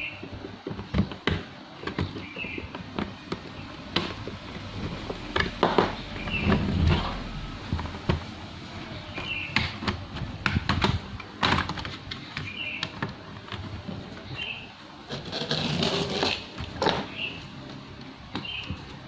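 Sharp irregular clicks, snaps and knocks of the laptop's plastic case being pried apart and handled, as its bottom cover is worked loose from the clips around its edges.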